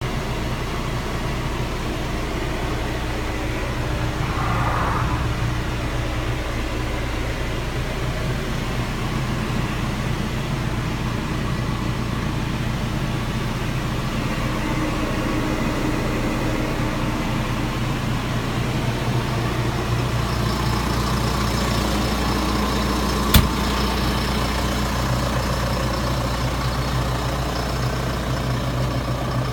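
John Deere 6230 tractor's four-cylinder diesel engine running steadily at a low, even drone. A single sharp click sounds about three quarters of the way through.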